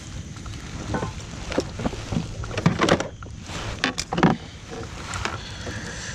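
A hooked bass being landed into a jon boat: irregular knocks, clicks and short splashy rustles, the loudest about three and four seconds in, over a steady low rumble.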